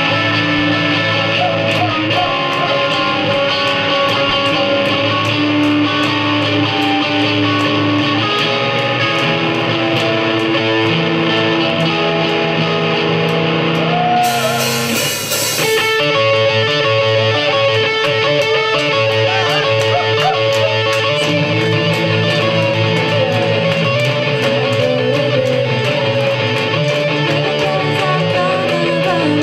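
A band playing a rock song's instrumental opening, with electric guitar over a steady drum beat. A brief wash of hiss comes about halfway through.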